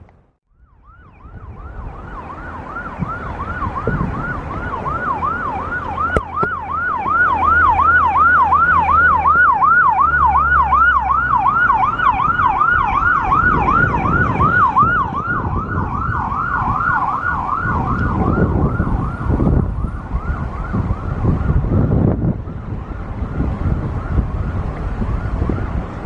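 Emergency vehicle siren in a fast yelp, its pitch rising and falling about three times a second. It grows louder, then fades away after about twenty seconds, over a low rumble.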